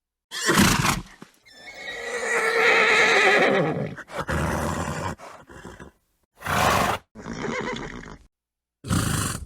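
A horse whinnying: one long wavering neigh, preceded by a short breathy burst and followed by several short noisy snorts with silent gaps between them.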